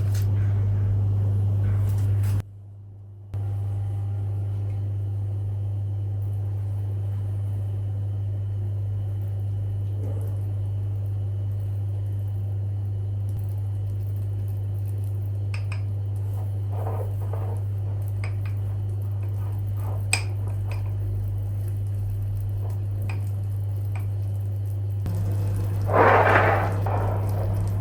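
Light clinks of glassware and dishes being handled, over a steady low hum, with a short rushing noise near the end.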